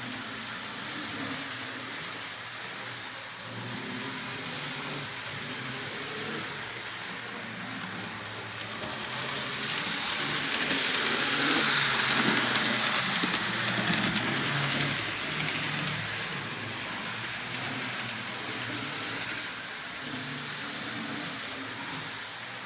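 Lima HO-scale model locomotive with its G "pancake" motor running along the track, louder for a few seconds around the middle. Its running is sketchy, which the owner takes as a sign it could benefit from a capacitor power pack.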